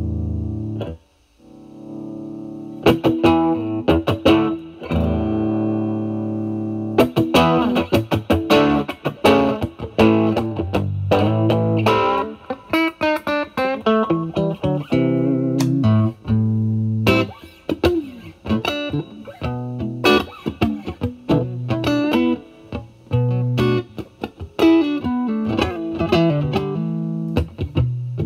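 Stratocaster electric guitar through a Vertex Steel String Clean Drive overdrive pedal, gain at maximum, into a Marshall Valvestate amp, playing picked lead lines and chords with light overdrive. A held chord cuts off about a second in, and after a short pause the playing starts again.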